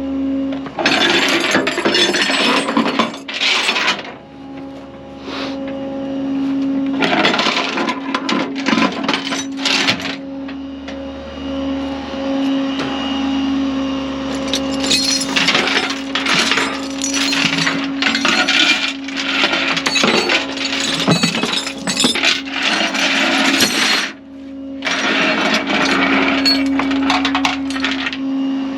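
Metal tow chains and hooks clanking and rattling in several stretches of a few seconds each, over a steady engine hum.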